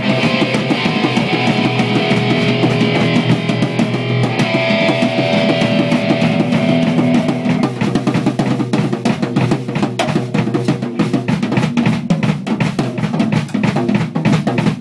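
Drum kit and guitar jamming, with kick and snare hits under ringing guitar chords. After about seven seconds the guitar chords fade and the drums carry on mostly alone.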